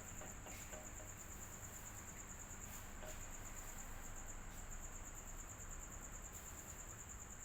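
Electric fan running steadily, an even rush of air with a continuous high-pitched pulsing trill on top.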